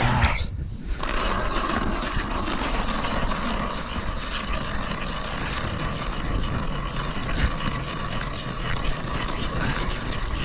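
Ice auger boring a hole through thick river ice, a steady unbroken sound starting about a second in.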